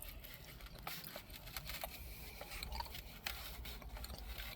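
Faint eating sounds: scattered light clicks and scrapes, irregular, over a low steady hum.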